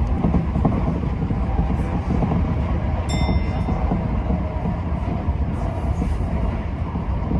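Tokyo Metro 10000 series electric train running steadily, a continuous rumble of wheels on rail heard from inside the car. A brief high-pitched tone sounds once about three seconds in.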